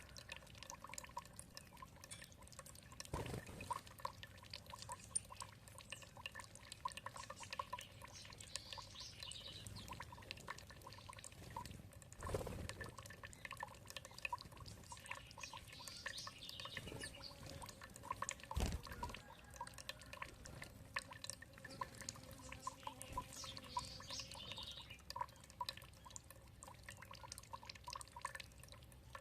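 Water trickling and dripping steadily, with a few louder drops or splashes, and a faint bird calling three times, about every seven seconds.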